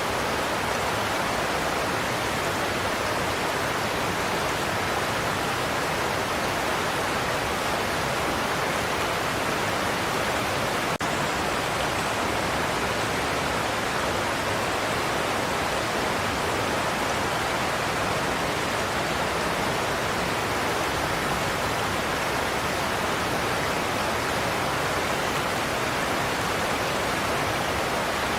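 Godafoss waterfall: a large volume of water pouring over a cliff, a steady, unbroken rush.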